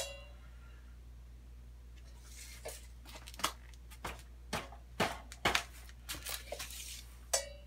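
Metal tool and stand parts being handled: a sharp metallic clink that rings briefly at the start, then a string of light irregular clicks and knocks over a steady low hum.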